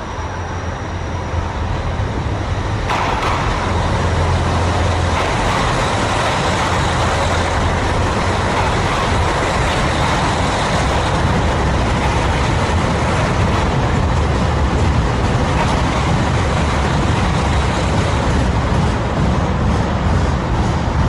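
KiHa 261 series diesel express train running, a loud steady rumble and rush of engine and wheels on rail that grows brighter about three seconds in.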